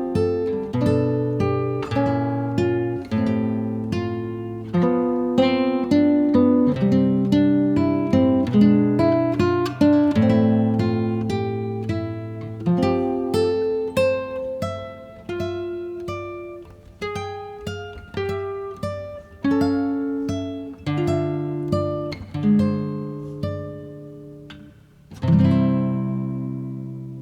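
Music: an acoustic guitar picking a melody note by note, slowing down and closing on a final chord about 25 seconds in that rings and fades away.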